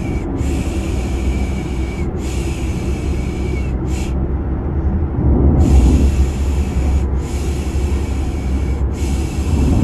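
Rhythmic 'piş piş' shushing laid over a steady low rumble of a car sound effect. The shushes come as three long ones and a short one, a pause of about a second, then the pattern starts again.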